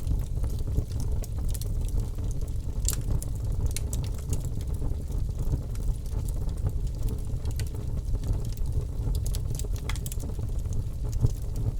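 Wood fire burning in a fireplace: many scattered sharp crackles and pops over a steady low rumble of the flames, with one louder snap about three seconds in.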